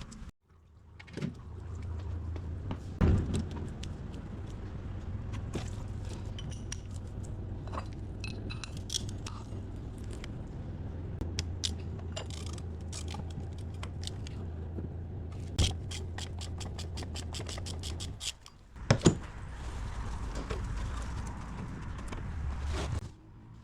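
Metallic clinks and clicks of tools over a steady low hum. A quick, even run of clicks comes about two-thirds of the way through, and the hum stops briefly near the end.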